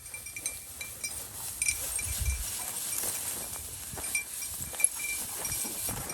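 A small bell ringing irregularly in short jingles, like a bird dog's collar bell while the dog works through cover, with scattered rustles and one low thump about two seconds in.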